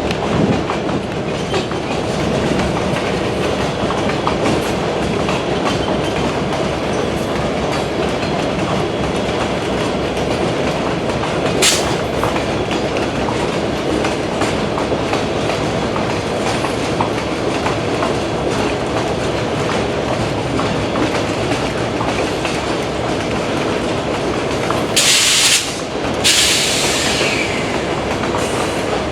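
A train rolls steadily past, its wheels clicking over the rail joints, with one sharp click about halfway through. Near the end come two short bursts of high hiss.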